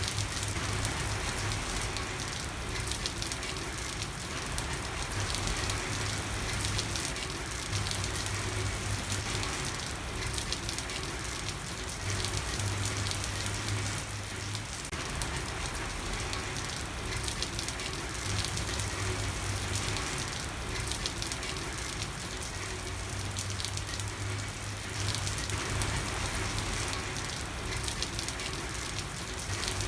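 Steady heavy rain falling on a hard street surface, an even patter with no pauses. A low hum comes and goes underneath every few seconds.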